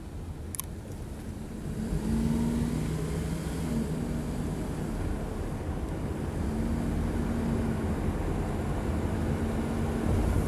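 Typhoon wind rumbling on the microphone, with a short click under a second in. From about two seconds in it grows louder and carries a steady low hum.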